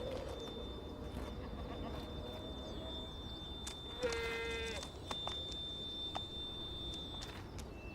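An ibex gives one short, high bleat about four seconds in. Under it run a faint steady high tone and a few scattered light clicks.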